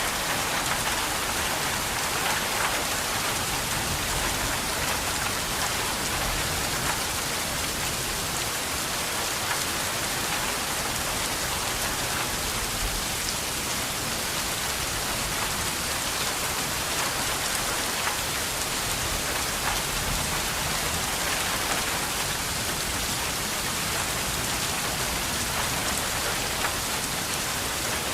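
Steady rain falling on a surface, a dense even patter with scattered individual drops audible.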